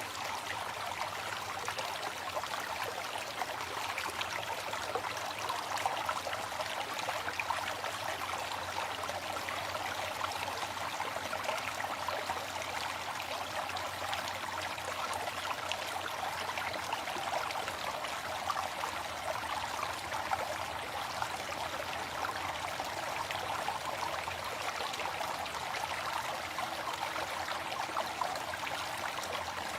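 Waterfall: water falling and splashing in a steady, even rush, with no pauses or changes.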